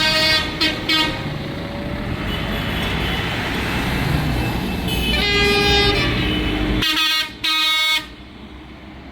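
Horns of passing tractors tooting over their engine rumble: three short toots in the first second, a longer toot about five seconds in, and two more around seven seconds in.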